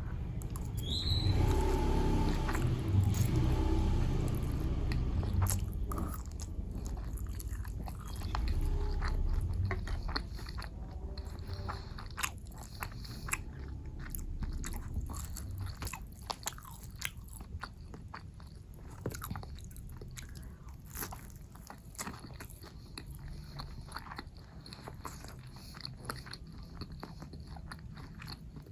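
Close-miked eating sounds of a person chewing and biting food, with crisp crunches and wet mouth clicks. Fuller, louder chewing for the first ten seconds or so, then quieter chewing with many sharp clicks.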